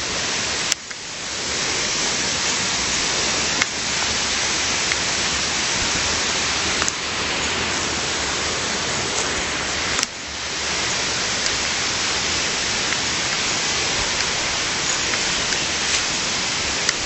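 Steady rushing water noise, even and unbroken. It is cut by a few sharp clicks, and after two of them the sound briefly drops away.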